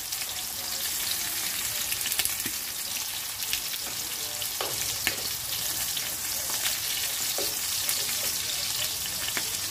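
Steak and sausages sizzling in hot fat in a frying pan: a steady hiss with constant fine crackling and a few sharper pops and clicks as they are turned with metal tongs.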